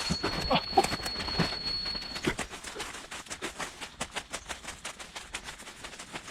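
Footsteps crunching and rustling through jungle undergrowth at a walking pace, with a steady high insect buzz that cuts off about two seconds in.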